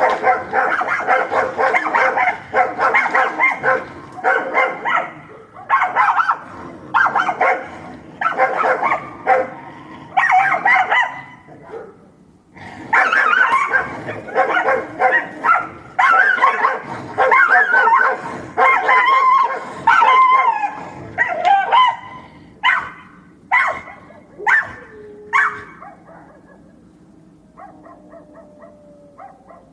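Angry dog barking in fast, dense runs of barks broken by short pauses, then a few single barks before the barking stops a few seconds before the end.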